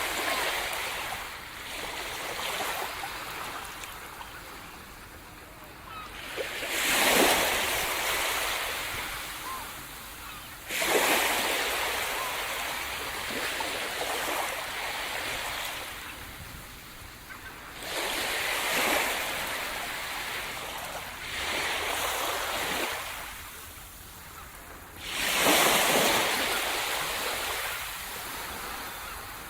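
Sea surf breaking on a shore: a wave breaks about every four to seven seconds, each a sudden rush of noise that fades as the water washes back.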